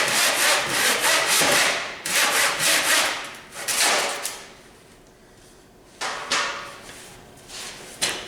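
Hemlock wood being worked in long rasping strokes: three loud, long strokes over the first four seconds, then shorter, quieter ones later on.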